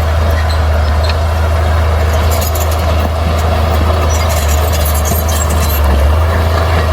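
Bulldozer's diesel engine running steadily under load with a deep, constant drone. From about two seconds in, sharp clicking and clattering can be heard over it, from the tracks and the rocks being pushed.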